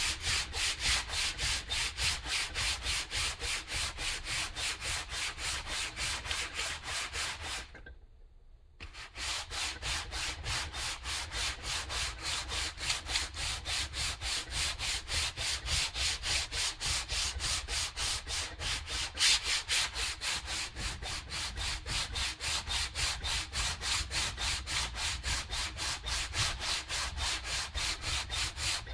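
Hand sanding on wood: quick, even back-and-forth strokes at about three a second, stripping old paint and finish. The strokes pause for about a second partway through, then carry on at the same pace.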